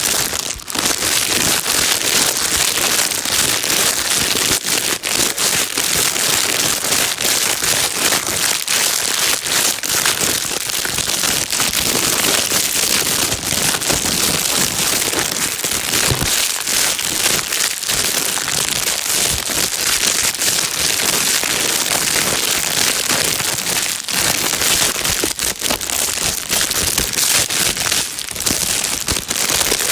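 Plastic bag being crinkled and rustled without pause: a dense, steady crackle with many fine sharp clicks, used as soothing white noise for a crying baby.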